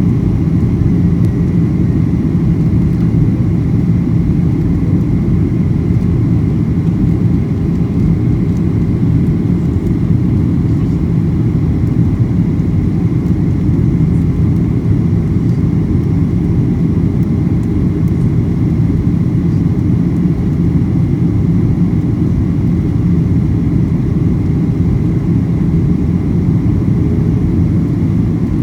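Steady, loud cabin noise inside a Boeing 737-800 airliner: the low rumble of its CFM56 engines and the airflow, unchanging throughout, with a faint steady whine above it.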